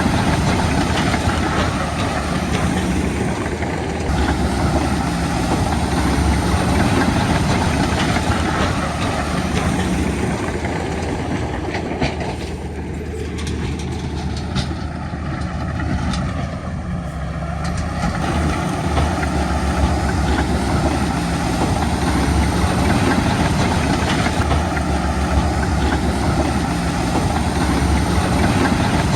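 Heavy diesel engine of earthmoving machinery running steadily, easing off a little around the middle with a few sharp clicks before building back up.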